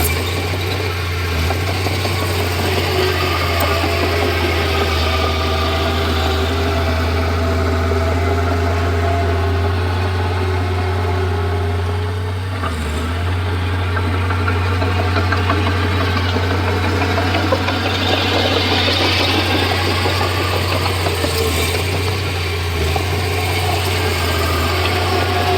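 Bulldozer diesel engine running steadily, with a brief dip about halfway through.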